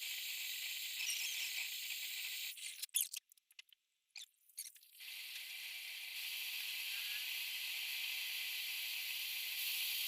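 Gas brazing torch flame hissing steadily as a filter drier is brazed into a refrigerator's copper pipework. A few seconds in, the hiss breaks off into a few short clicks before it resumes.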